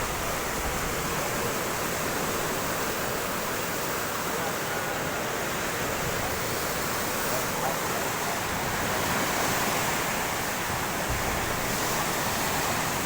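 Fast-flowing floodwater rushing past: a steady, even wash of water noise.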